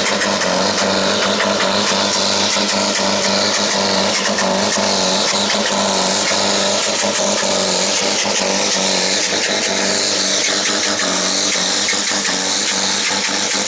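A farm-class pulling tractor's diesel engine runs hard at full load during a pull, steady and loud, with a high wavering whistle above it. Right at the end the whistle begins to fall as the engine comes off load.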